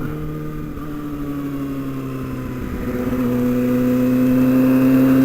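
Kawasaki Ninja ZX-6R inline-four engine running at low revs, growing louder from about three seconds in as the bike pulls away through a right turn.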